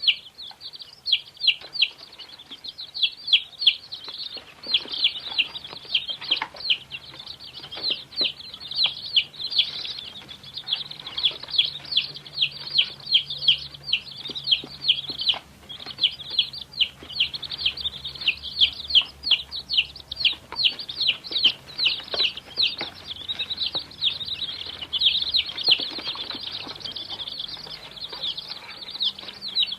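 Many baby chicks peeping together: a dense, continuous chorus of short high cheeps, several a second and overlapping.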